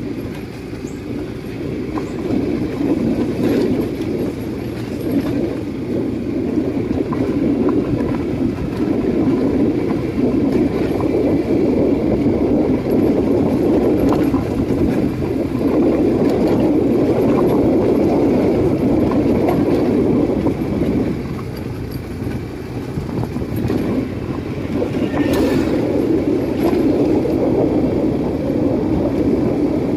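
Steady rumble of a moving vehicle in motion, swelling and easing a little.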